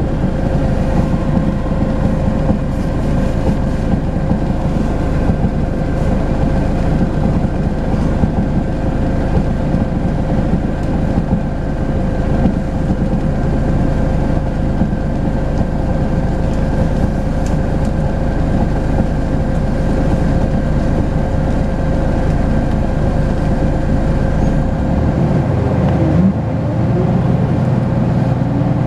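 Volvo B10BLE bus engine and drivetrain running under way, a steady rumble with a steady whine over it. About 25 seconds in the engine note changes and a rising tone follows.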